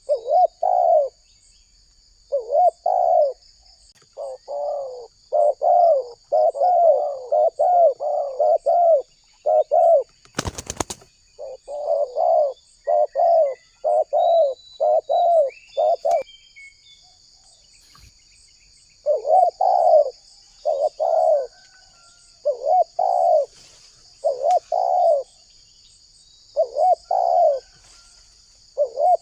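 Spotted dove cooing over and over in phrases of short, bending coos, with a pause of a few seconds around the middle. A brief knock sounds about ten and a half seconds in, over a steady high buzz of insects.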